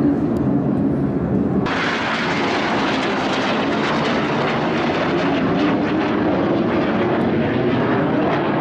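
Aermacchi MB-339 jet trainers flying over, a loud steady jet engine noise that suddenly turns brighter and hissier about two seconds in.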